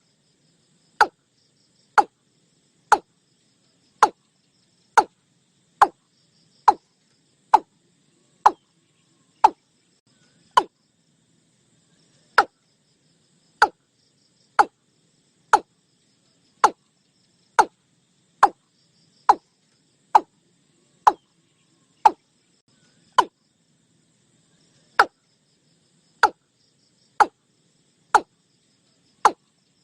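Watercock calling: a long series of short, sharp notes about once a second, each dropping quickly in pitch, with a few brief pauses in the series.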